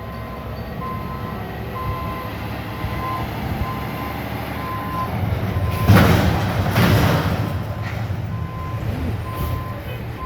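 Container delivery truck running, with its reversing beeper sounding a string of short beeps while it backs in to set down a dumpster. A loud clanking crash comes about six seconds in, dying away over a couple of seconds.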